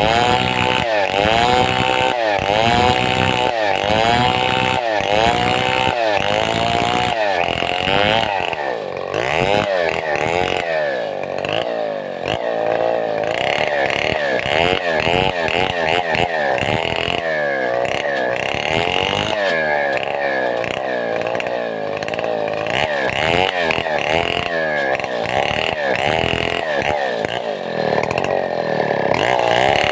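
Large two-stroke chainsaw of the Stihl 070 type running under load through a log as it is cut into boards, its engine note rising and falling over and over, about twice a second at first and less regularly later.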